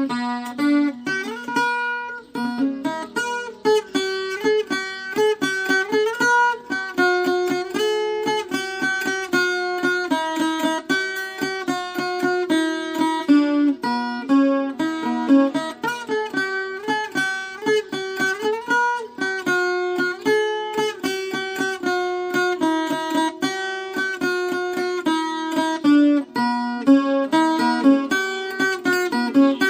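Viola caipira, the Brazilian ten-string folk guitar, played solo: a continuous melody of quick plucked notes.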